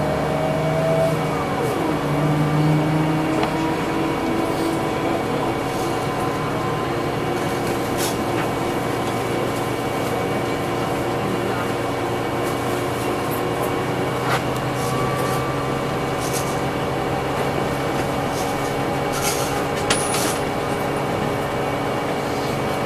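Scania OmniLink CL94UB city bus's diesel engine and drivetrain, heard from inside the passenger cabin while the bus drives. The engine note drops in pitch about a second or two in, then runs steadily, with a few light knocks or rattles.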